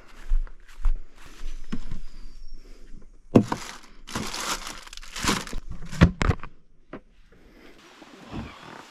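A couple of footsteps, then loud crinkling and crunching, as of something being crumpled or handled, with a few sharp clicks about six seconds in.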